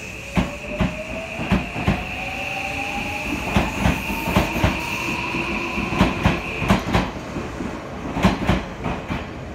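Odakyu 1000 series electric train pulling out of a station and gathering speed. Its traction motors give a whine that rises in pitch over the first few seconds, over a steady high tone that stops about two-thirds of the way through. The wheels clack in pairs over the rail joints, faster as the train speeds up.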